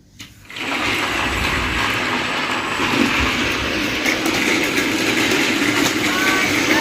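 Battery-powered Thomas and Friends toy train switched on about half a second in, its small electric motor and gears whirring steadily as it runs along plastic track.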